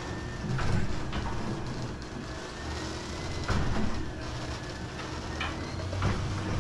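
Sectional garage door moving along its tracks, rollers rumbling steadily with scattered clicks and knocks.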